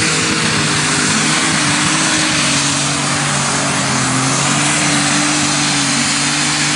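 Unlimited super stock pulling tractor engine running hard at high, steady revs, a loud continuous engine roar with a slight dip in pitch a little over two seconds in.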